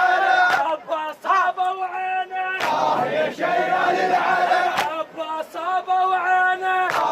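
Male voices chanting a Shia mourning latmiya in unison, with long held notes, crowd voices joining in. A few sharp strikes cut through at uneven intervals.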